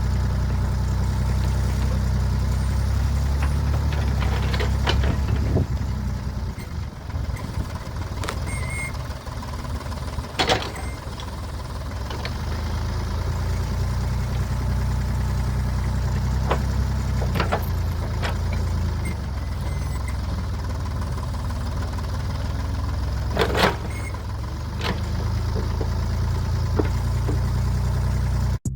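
Diesel engine of heavy equipment running steadily with a deep rumble, and a few sharp metallic clanks about five, ten, seventeen and twenty-three seconds in.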